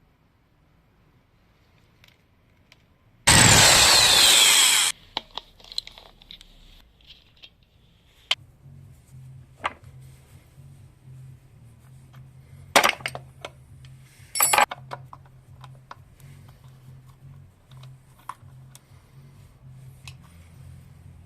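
A workshop tool runs in one loud burst of about a second and a half, then scattered clicks and knocks of tools and metal parts being handled.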